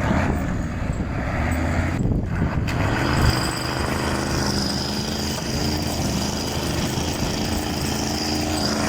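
Concrete truck's diesel engine running steadily under load while the truck is driven. A steady high-pitched whine joins about four seconds in.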